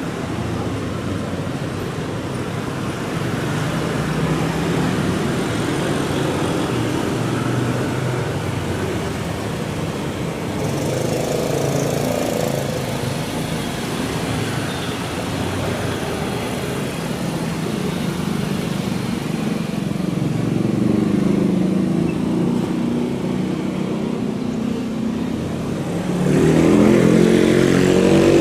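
A steady engine drone with slowly shifting pitch, growing louder near the end.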